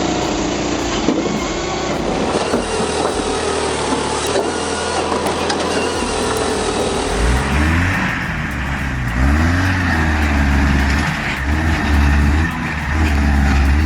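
Engine-driven machinery running steadily. About seven seconds in, it gives way to a heavy vehicle's engine revving up and down repeatedly, as if labouring under load.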